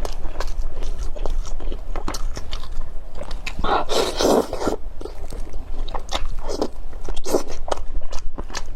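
Close-miked eating: a person biting and chewing food, with irregular crunches and smacks and a louder burst about four seconds in.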